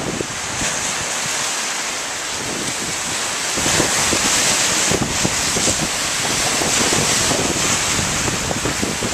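Surf breaking on a beach in a strong wind, with wind buffeting the microphone in gusts from about a third of the way in.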